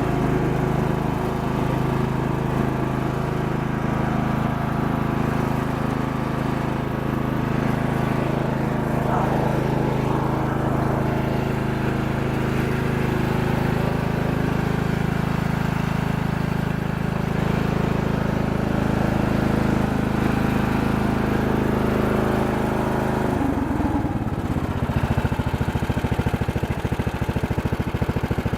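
Wizard Pro AYP garden tractor engine running at a steady speed, then throttled down about 23 seconds in to a slower idle in which the separate firing pulses can be heard.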